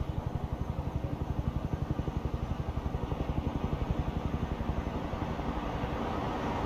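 Low rumble of a vehicle engine with a fast, regular throb, rising slightly in level toward the end.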